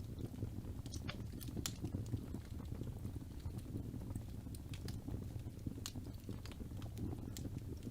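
Wood fire burning in a fireplace: a low steady rumble of flames with frequent sharp crackles and pops from the burning logs.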